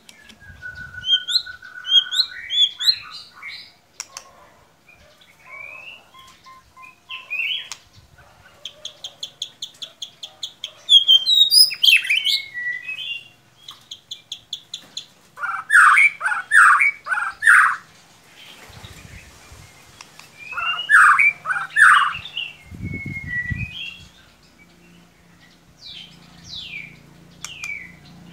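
White-rumped shama (murai batu) song: a varied run of sliding whistles and fast trills, with two loud bursts of harsh notes a little past the middle.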